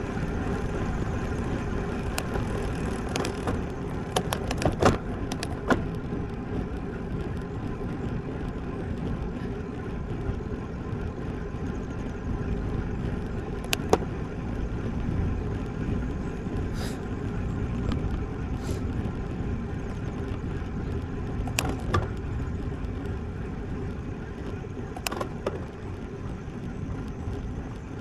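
Steady wind and road noise from a road bike in motion on a ride camera's microphone, with a few sharp knocks or clicks scattered through it.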